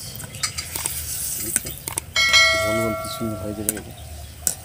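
Palm fritters sizzling in frying oil, with small clicks and scrapes of a utensil in the pan. About two seconds in, a sharp metallic strike rings out like a bell and dies away over a second or so.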